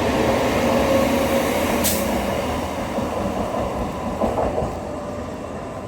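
Howrah–Bardhaman suburban electric local train (EMU) running on the tracks at the platform, a steady rumble that slowly fades over the last couple of seconds. A brief sharp hiss comes about two seconds in.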